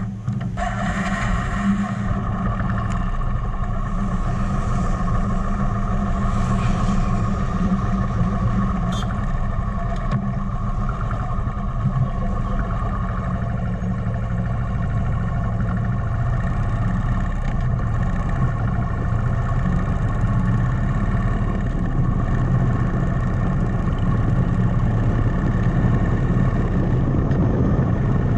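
Motorcycle engine running at a steady speed while riding, with a constant drone and dense low rumble throughout.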